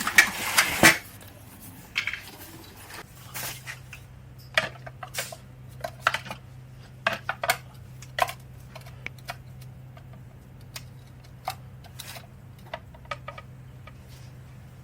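Metal hand tools and hardware clinking and tapping in scattered, irregular clicks while a motorcycle exhaust bracket is unbolted, with a denser run of clatter in the first second. A steady low hum sets in about three seconds in.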